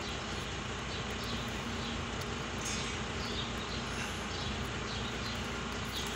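Small birds chirping repeatedly in short, falling calls over a steady low rumble.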